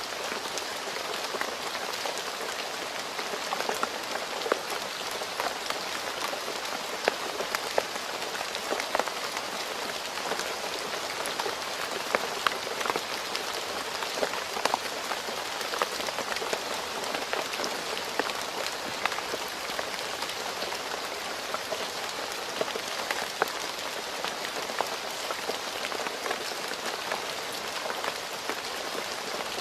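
Steady rain falling on a road: an even hiss with many individual drops splatting sharply through it.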